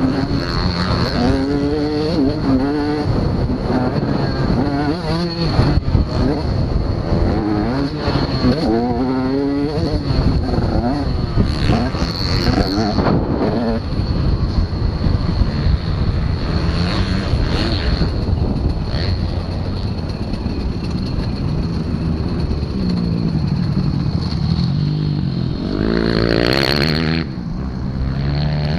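Several motocross bikes' engines revving up and down as they are ridden, the pitch climbing and dropping again and again through the gears and throttle. One gets markedly louder near the end, as if passing close.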